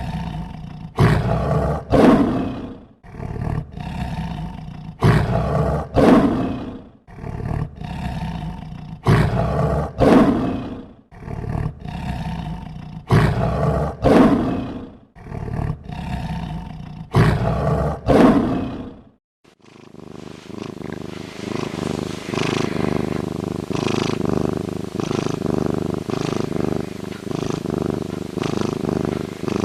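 A big cat making a long series of rough, rhythmic calls, about one a second and often in pairs. About two-thirds of the way through it stops briefly, and a steadier, continuous animal sound takes over.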